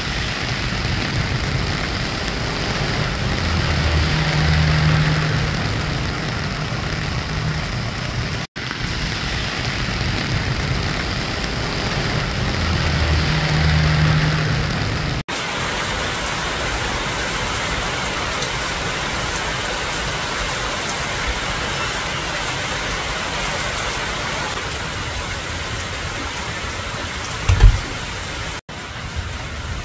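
Heavy rain falling steadily. A low rumble rises and fades twice, and a brief low thud sounds near the end.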